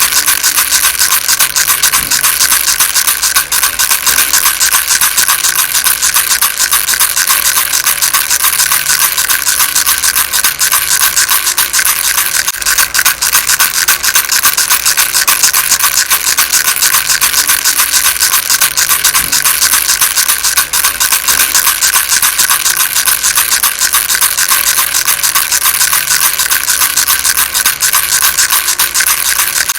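Baby rattle shaken without a break, giving a steady, dense rattle of very rapid clicks.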